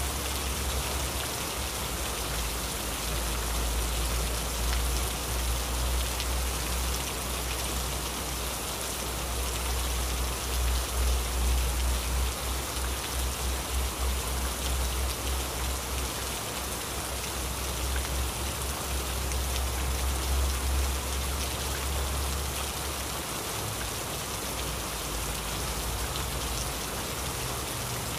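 Heavy rain falling steadily, a dense hiss of drops hitting surfaces. Underneath is a deep low rumble that swells and pulses in the middle and dies away near the end.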